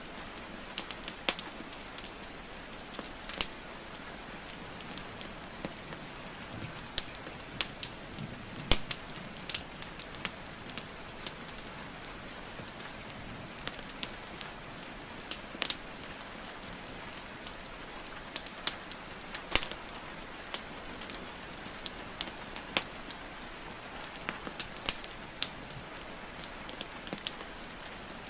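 Wood fire crackling, with frequent sharp irregular pops and snaps from burning logs, over a steady hiss of falling rain.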